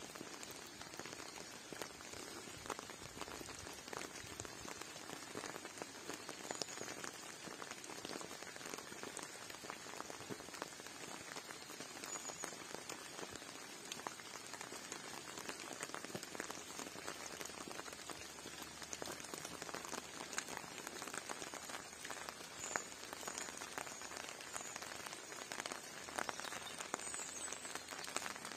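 Rain pattering steadily, a dense even patter of small drops on surfaces, with a few faint high chirps now and then.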